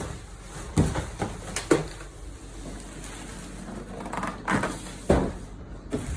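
A boxed portable air cooler and its packaging being handled during unboxing: a series of knocks and thumps, the loudest about a second in and again about five seconds in.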